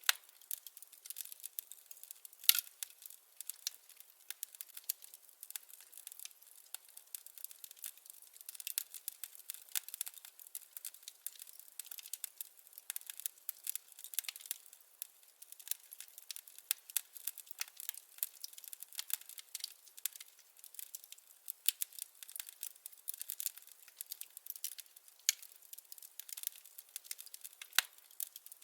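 Burning firewood crackling: a dense, irregular run of small snaps and pops, with a few louder pops, the loudest about two and a half seconds in.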